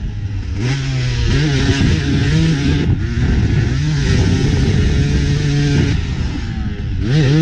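KTM 250 SX two-stroke motocross engine under riding load, revving up and backing off again and again as the pitch climbs and drops, with a sharp rev near the end.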